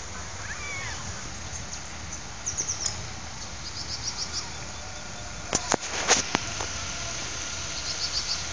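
Small birds chirping in short runs of rapid high notes over a steady outdoor background hiss and rumble. A few sharp clicks stand out about five and a half to six seconds in.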